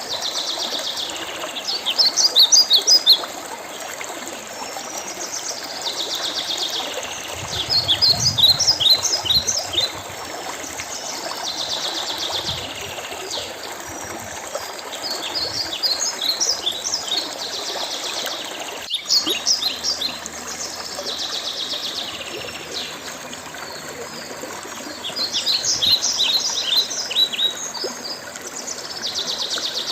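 Songbird singing over a steadily running stream. The same short song comes back about every six seconds: a buzzy note, then a quick run of high chirps. There is one sharp click about two-thirds of the way through.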